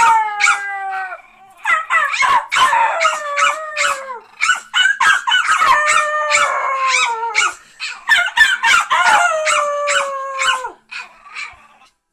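Dogs howling to each other in about four long howls, each sliding down in pitch, with howls overlapping at times and short sharp yaps in between.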